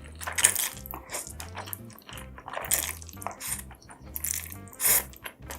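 Close-up eating sounds of spicy food: wet mouth clicks, crunching and smacking, with several louder bites or slurps, over background music with a steady beat.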